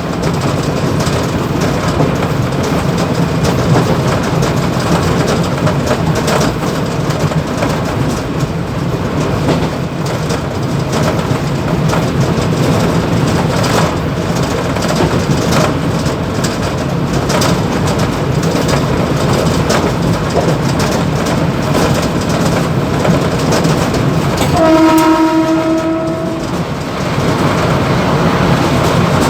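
Mumbai suburban EMU local train running at speed, heard from the motorman's cab: steady rumble and rattle with wheel clicks over the rail joints. Near the end a horn sounds once for about a second and a half.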